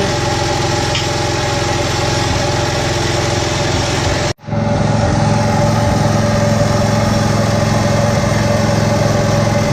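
An engine idling steadily. The sound cuts out abruptly about four seconds in, then the engine idling resumes.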